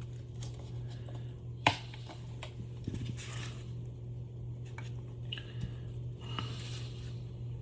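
Small metal clicks and clinks of motor parts being handled on a workbench, with one sharp click a little under two seconds in, over a steady low hum.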